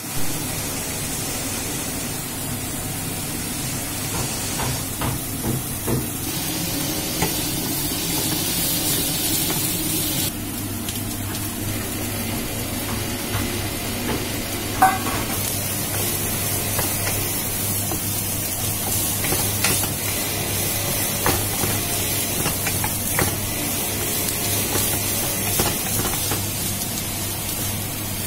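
Diced onion and carrot sizzling as they fry in a non-stick wok, with a wooden spatula stirring and scraping against the pan now and then. There is a sharp click about halfway through.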